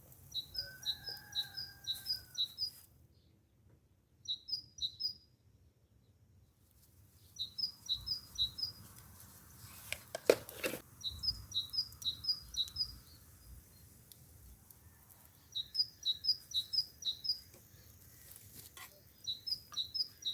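A songbird singing the same high, quick phrase again and again, a string of paired notes in bursts of about a second or two, six times. A brief clatter comes about halfway through.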